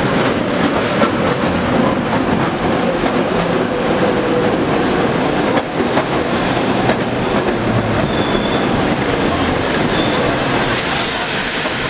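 Diesel-hauled passenger train arriving at a station, the locomotive and then the coaches rolling past close by: a steady rumble of wheels with clickety-clack over the rail joints. Near the end a high hiss comes in.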